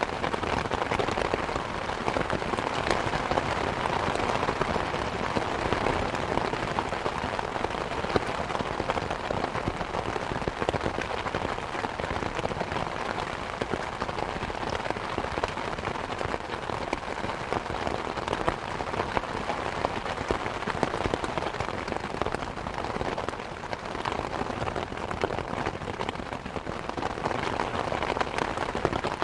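Steady rain pattering on a surface, mixed with the crackle and small pops of a wood fire.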